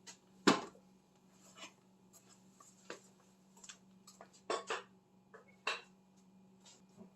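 Metal hand tools clinking and clanking against each other and the car's parts while a wrench is worked on a bolt: a series of sharp separate knocks, the loudest about half a second in and several more together about four and a half to six seconds in.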